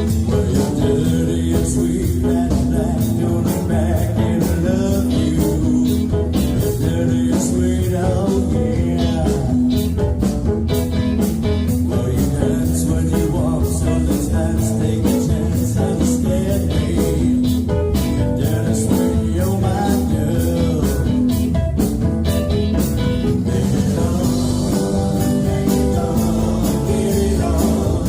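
Live band playing a blues-rock number, with electric guitar, bass and drum kit.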